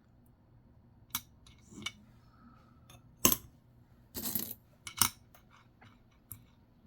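Nickels clinking and clicking as they are handled and set down: a handful of sharp metallic clicks, the loudest about three seconds in, with a short rattle about a second later.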